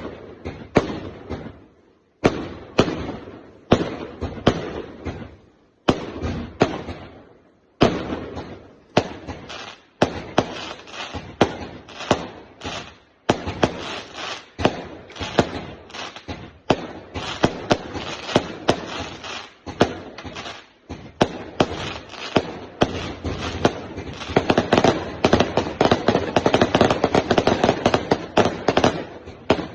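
Fireworks going off in quick succession: sharp bangs, at first about one a second, coming faster and denser until they run together into a near-continuous rapid barrage for the last few seconds.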